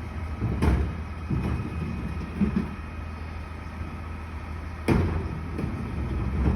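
Garbage truck engine running steadily under two sharp bangs, about a second in and about five seconds in, with lighter knocks between: the clatter of a trash can being lifted and emptied into the truck.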